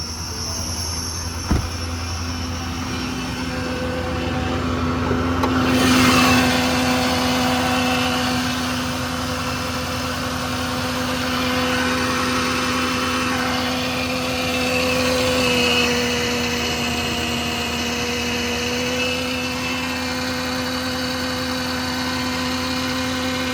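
The 6.7-litre Power Stroke V8 diesel of a Ford F550 running steadily, with a sharp click about a second and a half in. About six seconds in the sound picks up and a hiss joins it, as the engine-driven VMAC air compressor comes on.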